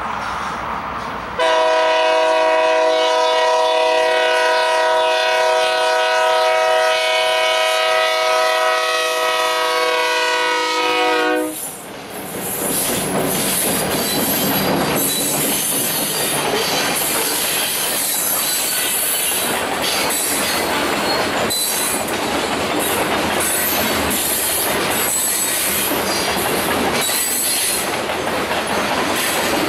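Lead diesel locomotive's air horn sounding one long steady blast, a chord of several notes, which starts suddenly about a second and a half in and cuts off near the middle. After it, a long train of loaded grain hopper cars rolls past, the wheels clacking over rail joints.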